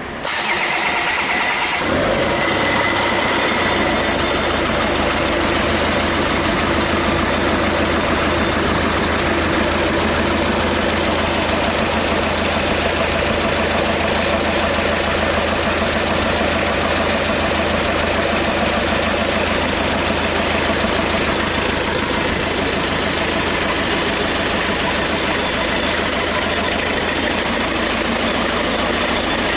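Hyundai D4BH 2.5-litre four-cylinder turbodiesel, run out of the vehicle, cranking and starting right at the beginning, then settling within a few seconds into a steady idle.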